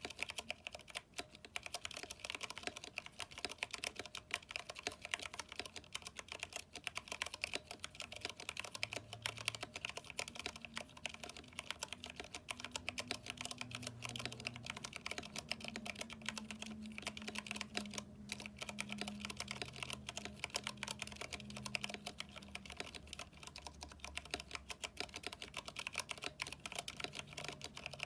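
Continuous fast typing on a Vortex 10th Anniversary Edition mechanical keyboard fitted with NP PBT keycaps, Cherry MX Brown switches and lubed stabilizers: a dense, even stream of keystroke clacks.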